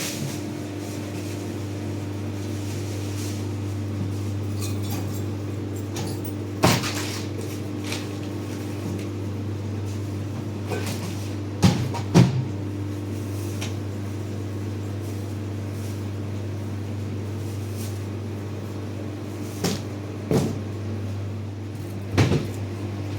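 A few scattered knocks and clunks of goods being handled and set down, over a steady low hum.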